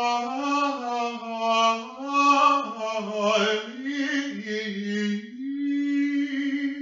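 A single voice singing a slow, chant-like melody in long held notes that step up and down in pitch, the last note held for over a second near the end.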